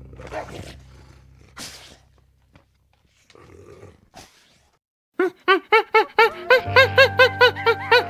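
Grey wolves snarling in a few short rough bursts. About five seconds in, plucked-string background music begins with a quick, even run of notes.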